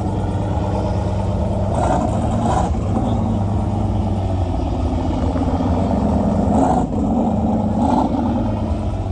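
Pickup truck engines running with a steady low rumble, with a few short louder noisy swells, about two seconds in and twice near the end.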